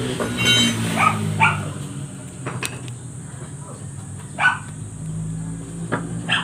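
A dog barking: two quick barks about a second in and another a little past the middle, over a steady low hum.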